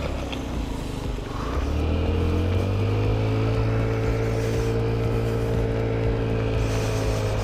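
Honda Ruckus scooter's 49cc four-stroke single-cylinder engine revving up about a second and a half in as the scooter pulls away, then running steadily at the higher speed.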